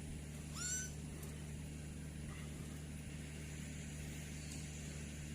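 One short rising whistle from an African grey parrot about half a second in, over a steady low hum.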